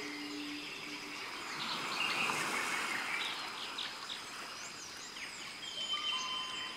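Birds chirping and calling over a soft hiss of outdoor ambience, with the last held music notes dying away about a second in. A steady thin high tone runs underneath.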